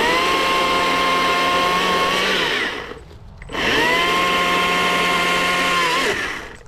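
Gasoline chainsaw revved up to full throttle twice, each burst holding a steady high engine note for about two and a half seconds before dropping back.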